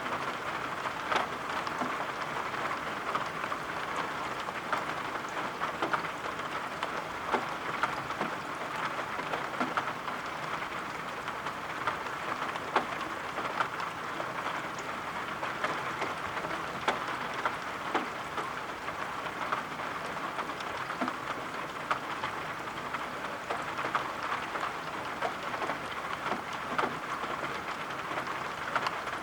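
Steady rain, a continuous hiss with frequent sharp ticks scattered through it.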